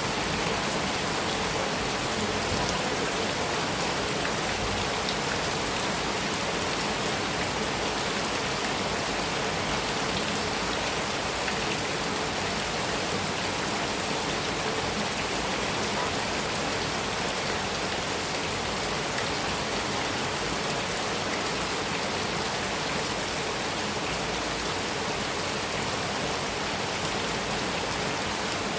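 Heavy rain falling steadily on a metal roof: an even, unbroken hiss with scattered sharp drop ticks.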